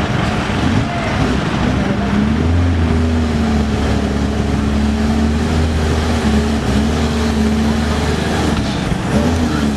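Truck engine running under load. Its pitch rises about two seconds in, holds steady, and changes again near the end.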